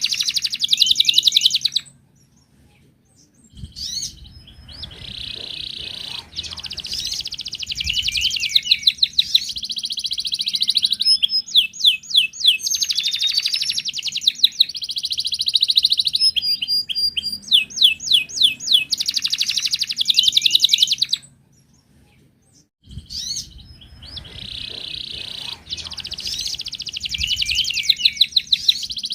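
Wild canary (Atlantic canary) singing long, rapid trilled song phrases. The song breaks off twice, about two seconds in and again about three-quarters of the way through, each time for a second or two before resuming.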